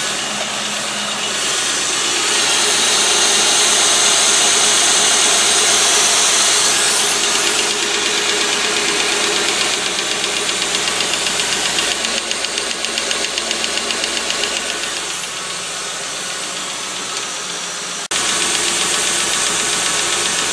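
Ford 4.6-litre V8 running, its valve train quiet now that oil again reaches the cams and lifters on both heads. The loud, steady mechanical noise jumps abruptly louder about two seconds before the end.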